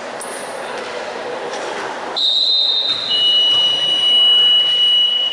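A long, shrill high-pitched signal tone starts about two seconds in, with a second steady, slightly lower tone joining a second later and holding for several seconds, typical of a game whistle or buzzer stopping play in a basketball gym.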